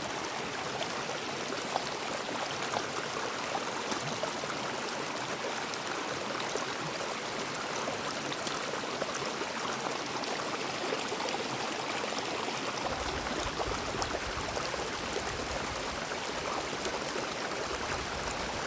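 Water running steadily in a stream, an even rushing sound. A low rumble joins about thirteen seconds in.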